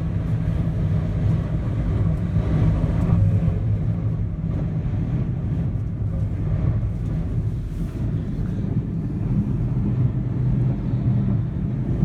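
Steady low rumble of strong wind buffeting a swaying gondola cabin and the microphone, rising a little around three seconds in.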